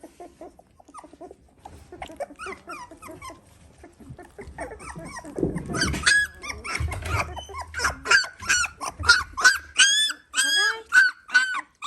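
Young Dalmatian puppies squealing and whimpering. The calls are faint and scattered at first, then loud and rapid, several high squeals a second, from about halfway through.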